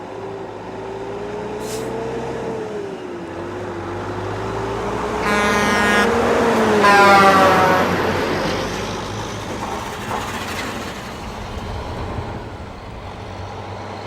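A truck driving past with its engine running and sounding its horn twice, about five and seven seconds in. The second blast slides down in pitch as it passes, and the sound swells to its loudest around then before fading.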